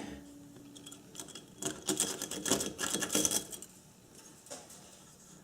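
A quick series of light clicks and small metallic rattles, bunched in the middle, as metal tools or parts are handled at a lathe that has just been switched off.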